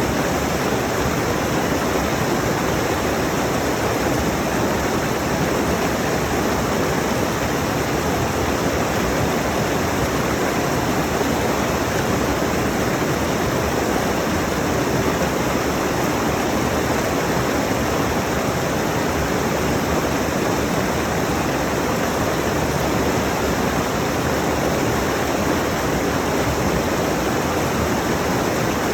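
Rushing mountain stream: water pouring over rocks in a steady, unbroken rush.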